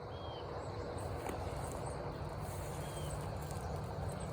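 Rural outdoor ambience: a steady low rumble with a few faint short chirps from small birds or insects.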